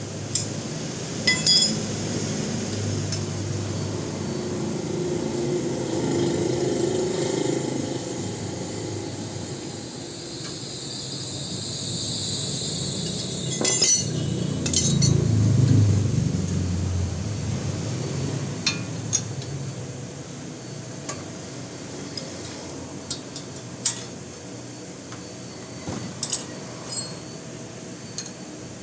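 Scattered light metallic clinks and taps, like hand tools and small metal parts knocking together, over a steady background noise. A louder stretch of noise swells and fades in the middle.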